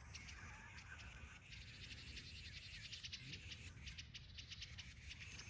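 Faint, rapid, sharp chip calls from a group of small songbirds mobbing a snake: alarm calls.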